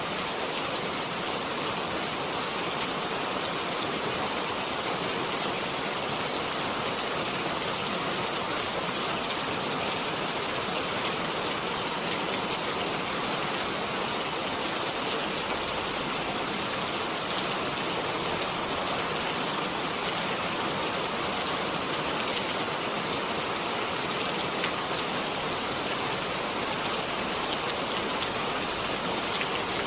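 Steady rainfall, an even hiss of many drops with faint individual drop ticks, holding constant throughout.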